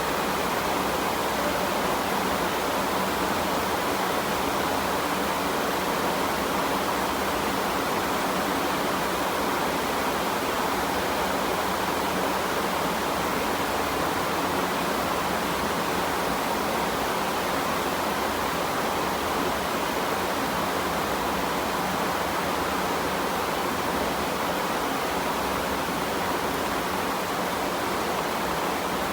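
Rain falling steadily, a continuous even hiss with no single drops standing out.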